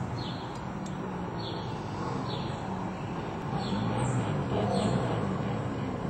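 A bird chirping, short falling notes about once a second, over a steady low rumble.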